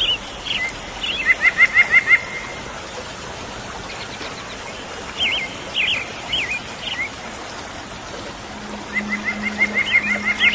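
Wild songbirds singing: a quick run of repeated notes about a second in, a few separate notes in the middle, and another fast series of repeated notes near the end.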